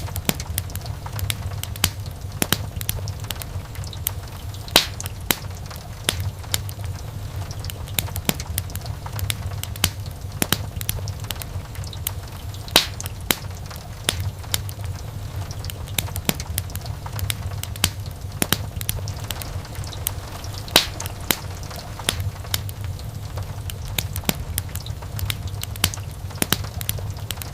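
Wood fire in a fireplace burning steadily: a low rumble of flames with frequent irregular crackles and sharp pops from the burning logs, a few of them louder snaps.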